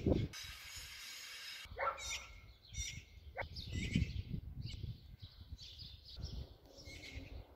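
Birds chirping in short scattered calls, over a low rumble.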